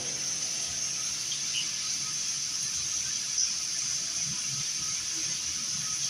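Steady background hiss.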